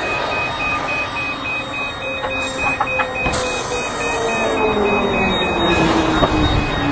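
A rapid, steady electronic beeping alarm over a noisy rumble. From about two seconds in, a whine slowly falls in pitch.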